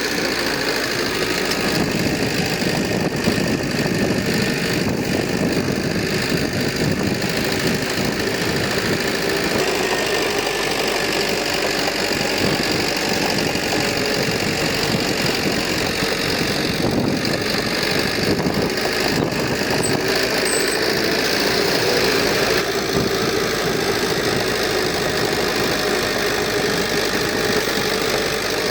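Heavy earthmoving machine's diesel engine running steadily, with a rough knocking note.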